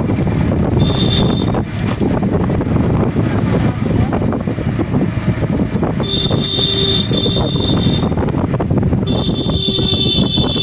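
Heavy rain pouring down, a dense steady hiss close to the microphone. A high-pitched steady tone sounds briefly three times over it.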